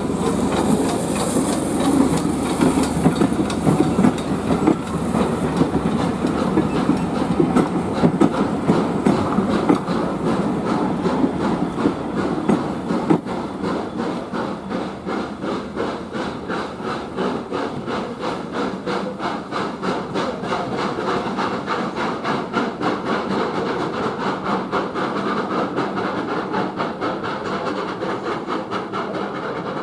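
A railway train running along the track, its wheels clicking rapidly and regularly over the rail joints. It eases slightly quieter through the second half.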